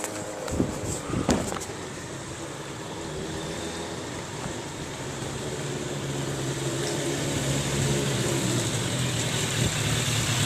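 Motorcycle engine running and growing steadily louder as it comes back toward the listener, with two short sharp knocks in the first second and a half.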